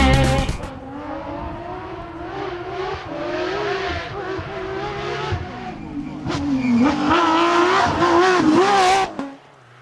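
Rally car engine running hard at high revs, its pitch wavering up and down, dropping once and climbing again about two-thirds of the way through, then cut off abruptly near the end.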